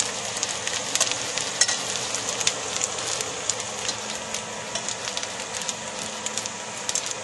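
Salmon cakes sizzling and crackling as they shallow-fry in hot oil in a stainless steel skillet. There are a few sharper clicks in the first few seconds.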